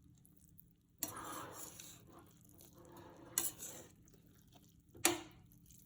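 Spoon scooping and stirring cooked biryani rice in a metal pressure cooker: a scrape about a second in, then two sharp clinks against the pot.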